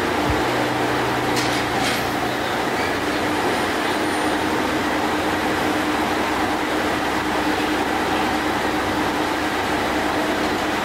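Train running at the station: steady, dense running noise with a constant hum, and two faint clicks about a second and a half to two seconds in.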